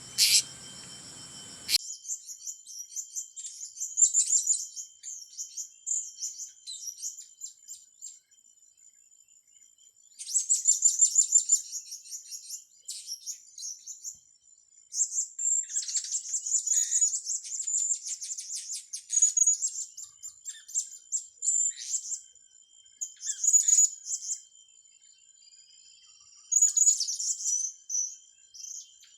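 High, thin chirping calls of blue-crowned hanging parrots (serindit), in bursts of rapid notes every few seconds over a faint steady high whine, after a sharp click at the start.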